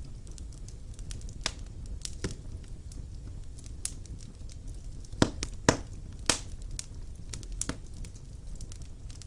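Wood fire burning in a stone fireplace: a steady low rumble of flame with irregular sharp crackles and pops from the burning logs, several louder pops in the middle.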